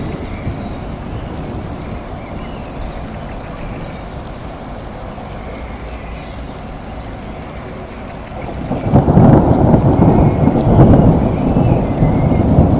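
Steady rain with a low background rumble. About two-thirds of the way in, a loud rolling thunder rumble swells in and keeps going.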